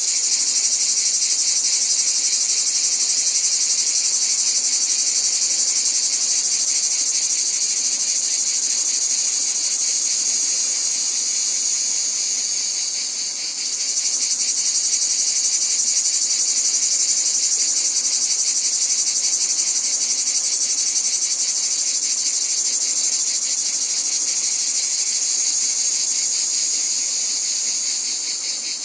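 Dense, steady chorus of insects trilling high and fast, dipping briefly about halfway through and again near the end.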